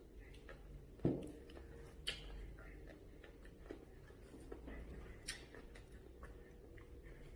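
Quiet eating at a table: a few light knocks and clicks of utensils against dishes, the loudest about a second in, over a low room hum.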